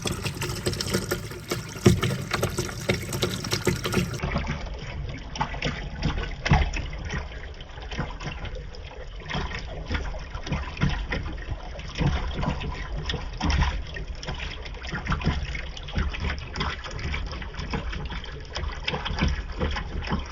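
Water running steadily down a marble run course, with frequent small knocks and clicks of rubber bouncy balls tumbling and bumping along the track.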